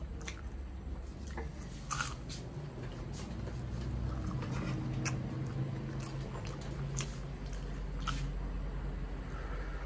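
A person chewing a mouthful of soft fried banana fritter (pazhampori), with scattered wet mouth clicks and smacks, and near the end sipping milky tea from a glass.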